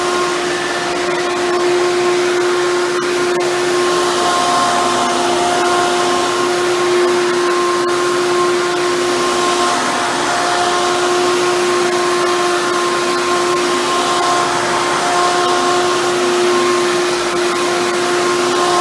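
Hoover Bagless Twin Chamber upright vacuum cleaner running steadily: a constant motor hum over a rush of air.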